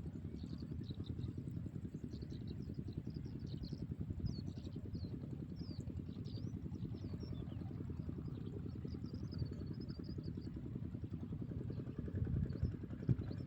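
A steady low engine drone with a fast, even pulse, with small birds chirping over it.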